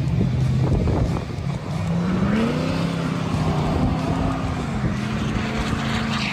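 Lifted Ford F-250 diesel pickup's engine, deleted and fitted with a big aftermarket exhaust, revving up about two seconds in and holding high revs with small dips.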